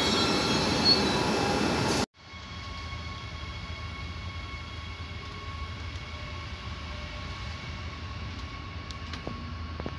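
A red DB regional electric locomotive moving close by, with several high steady whining tones over its running noise. About two seconds in, this cuts off abruptly to the quieter, steady low rumble inside a train carriage.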